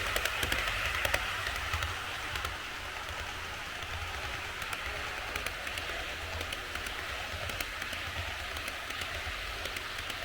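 TOMIX HO-scale model train of the JNR 159 series running on track: a steady rolling hiss from wheels and motor, with a low hum and scattered light clicks. It eases a little about two seconds in.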